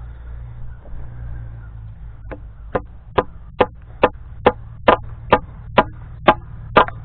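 A hammer driving a nail into a wooden fence brace: about a dozen evenly spaced strikes, a little more than two a second, starting about two seconds in and getting louder. A steady low rumble runs underneath.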